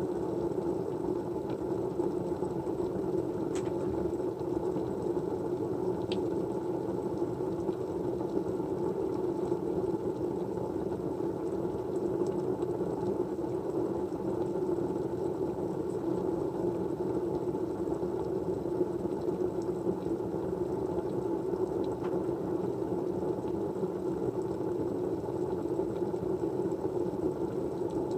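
Steady white noise: an even, dull hiss that stays at one level throughout, with a few faint ticks here and there.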